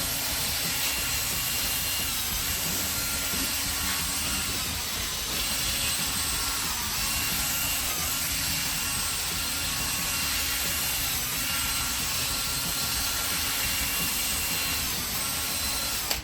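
Electric drill spinning a sanding disc against a plastic headlight lens, a steady motor whine with small shifts in pitch as the speed changes; it cuts off suddenly at the end.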